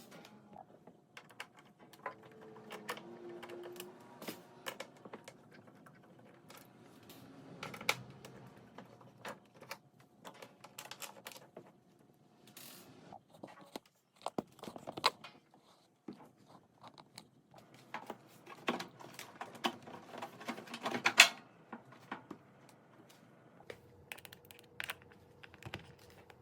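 Scattered clicks and taps of hand tools and plastic parts being handled while a dishwasher's door panel is taken apart. They are irregular, growing busier and louder in the last several seconds.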